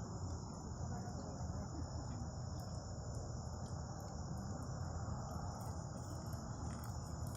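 Crickets trilling steadily in a continuous high chorus, over a low steady rumble.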